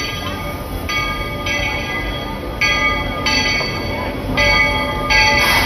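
Steam locomotive whistle blowing a series of short blasts, each a steady chord that starts and stops abruptly, over the low rumble of the train. A brief burst of hiss comes near the end.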